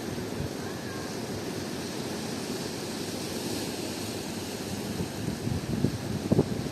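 Strong wind rushing over the microphone with surf in the background, a steady roar with a few louder low bumps near the end.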